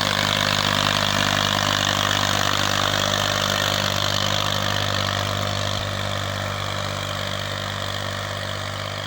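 Massey Ferguson 240 tractor's Perkins diesel engine running steadily, growing a little quieter over the last few seconds.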